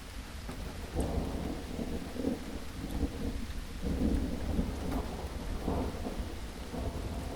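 Steady rain falling, with a low rolling rumble underneath that swells about a second in and keeps surging unevenly.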